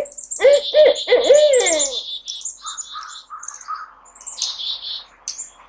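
An owl calling: three short hoots and then a longer, falling call, ending about two seconds in. Small songbirds chirp throughout and keep on after the owl stops.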